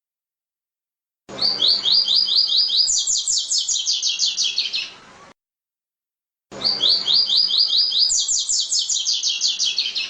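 Double-collared seedeater (coleiro) singing in the 'tui-tui' style. There are two phrases of about four seconds each, each a fast run of short, high, down-slurred notes that steps up higher partway through, with a silent gap between them.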